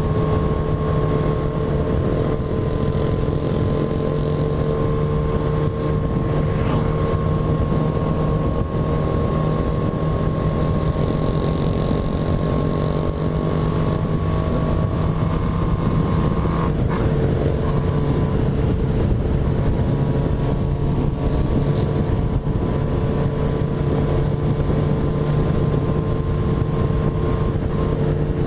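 Motorcycle engine running at a steady cruise, its note holding one pitch, with a slight change in the note about two-thirds of the way through.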